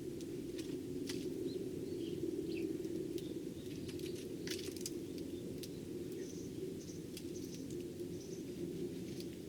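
Eurasian tree sparrows at a feeding spot: scattered short high chirps and sharp clicks and taps from pecking and hopping, over a steady low hum.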